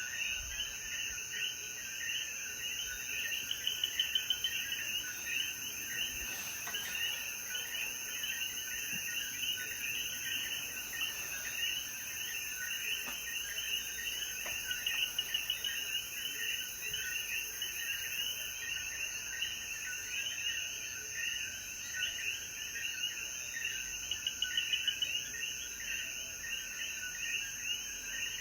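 A chorus of Puerto Rican coquí frogs calling all at once, many short rising chirps overlapping without a break, over a steady high-pitched insect trill.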